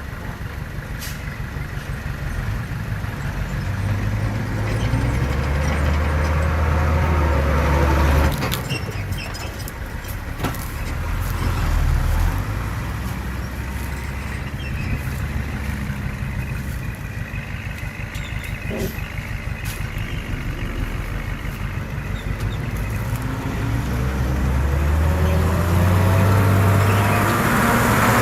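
Heavy diesel earthmoving machinery working, its engine rising and falling under load several times, with a few sharp knocks along the way.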